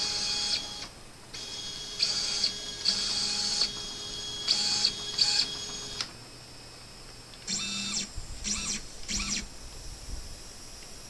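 Nema 23 stepper motors of a hobby CNC machine whining through a series of short moves, about eight stop-start bursts of under a second each, each at a steady pitch. They run smoothly, without rattling, on new stepper drivers.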